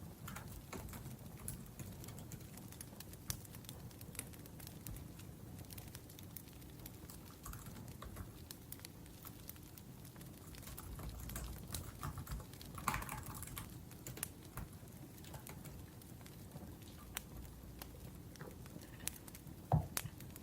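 Laptop keyboard typing, a scatter of light key clicks, over the low crackle of a wood fire, with one louder knock near the end.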